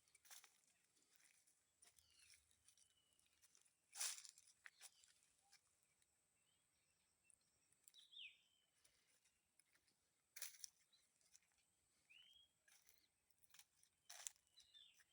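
Faint natural ambience with a few short, curved bird chirps scattered through it, mixed with several sharp crackles and rustles. A faint steady high tone runs underneath.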